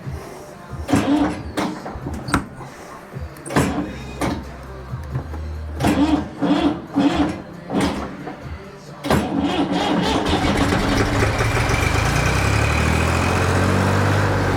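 Massey Ferguson MF230 tractor engine being restarted: several short, separate bursts of cranking and clunks over roughly nine seconds, then the engine catches and settles into steady running.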